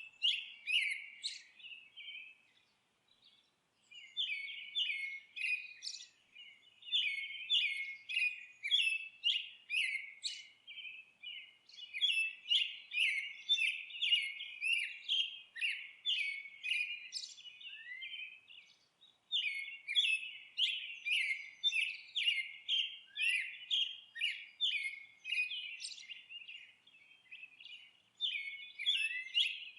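Songbirds chirping and singing in long runs of quick, high chirps, broken by a few short pauses.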